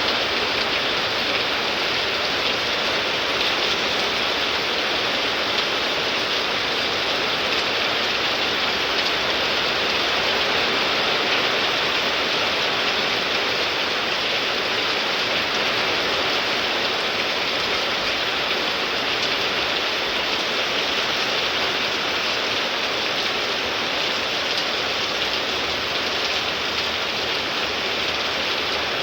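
Heavy rain pouring down steadily, a dense even hiss of a summer thunderstorm downpour.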